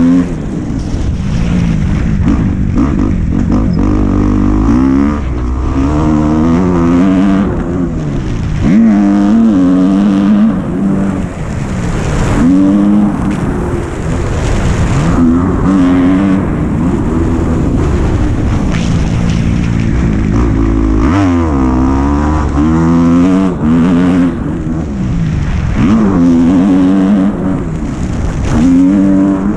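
Dirt bike engine revving while being ridden. Its pitch climbs and drops again and again, every few seconds, through the whole stretch.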